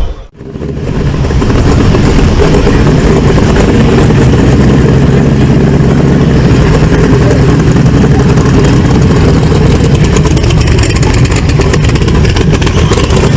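A vehicle engine running loudly and steadily close by, after a brief drop-out in the sound just at the start.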